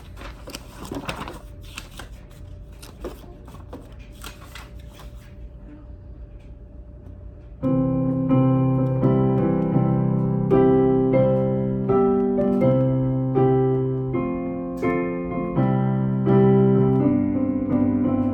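Soft rustling and a few light clicks, then, a little before halfway through, a piano starts playing a slow hymn with full chords, each chord struck and left to ring.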